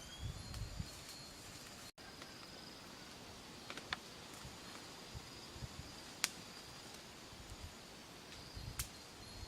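Outdoor ambience with a steady high insect drone and a few sharp clicks or snaps scattered through it, plus soft low thumps near the start and end.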